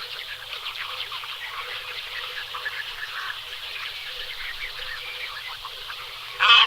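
Rainforest ambience: a dense chorus of many small animals calling with quick, overlapping chirps, and one louder, short call near the end.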